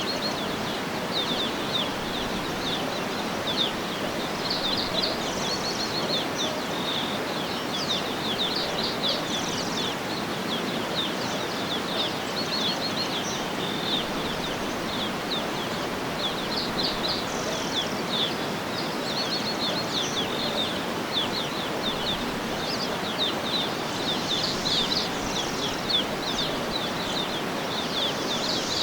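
Small birds chirping and twittering in quick, short calls throughout, over a steady rushing background noise.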